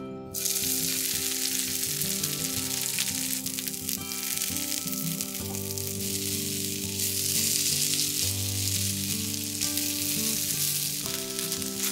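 Chopped pork and kombu sizzling as they stir-fry in a small wok, a dense, even hiss that starts suddenly about half a second in. Soft background music with held notes plays under it.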